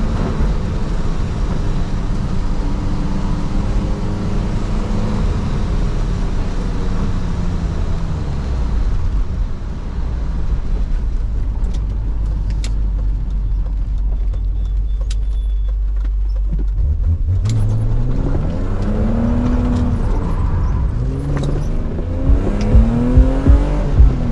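BMW Z3 M's 3.2-litre straight-six heard from the cabin. The engine note falls as the car slows, then holds a low steady rumble for several seconds. From about two-thirds of the way in it revs up hard again through gear changes, its pitch rising and dropping back with each shift.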